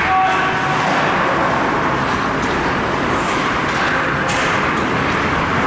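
Steady ice-rink game noise: skates and play on the ice with a few brief calls.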